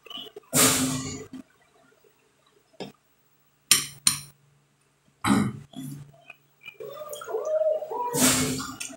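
Close-miked eating sounds: wet chewing and mouth noises from a mouthful of food, loudest about half a second in and again near the end, with two light clinks of a fork against the glass plate around four seconds in.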